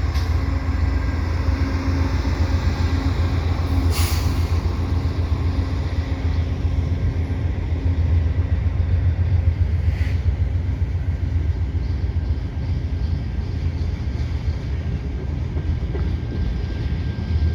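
Via Rail passenger train hauled by a GE P42DC diesel locomotive running past: a steady low rumble with a held engine tone that fades out about halfway through, and two sharp clicks, about 4 and 10 seconds in.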